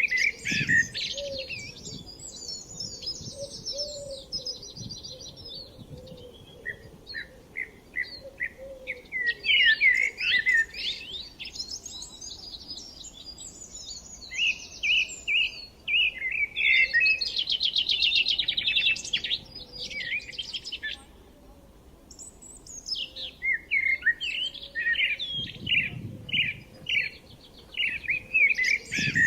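Several songbirds singing and chirping with quick, overlapping trills and whistled phrases, easing off briefly about two-thirds of the way through before picking up again.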